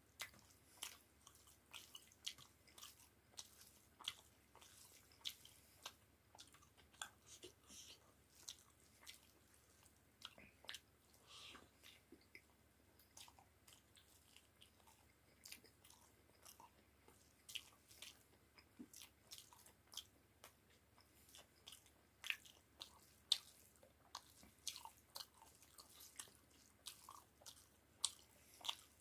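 A person chewing food close to the microphone: soft, irregular clicks and small crunches, several a second, with a few louder ones.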